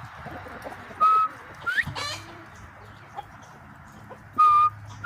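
Northern bobwhite quail whistling its "bob-white" call twice: each call is a short level note followed by a quick rising note.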